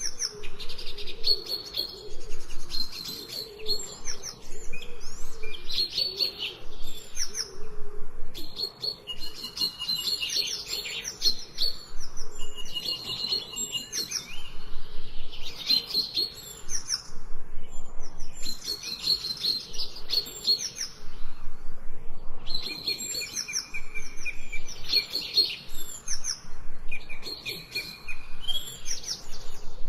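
Songbirds chirping and trilling in quick, busy phrases that come every couple of seconds, with a fainter, lower wavering call underneath during the first several seconds.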